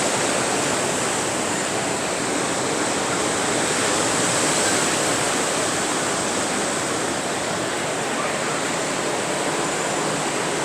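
Sea surf washing onto a beach, heard as a steady, even rush of water.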